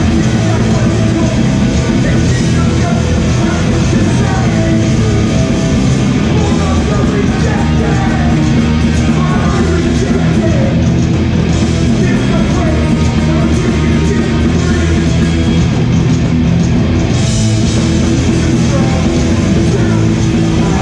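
Hardcore punk band playing live at full volume: distorted guitars, bass and drums, with vocals over them at times.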